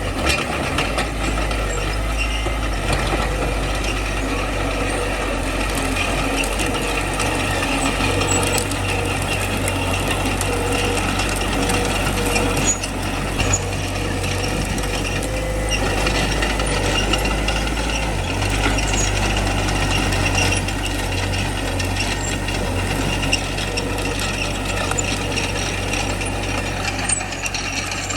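Small crawler bulldozer working: its diesel engine runs with a steady low drone under a continuous metallic clatter and squeal from the steel tracks.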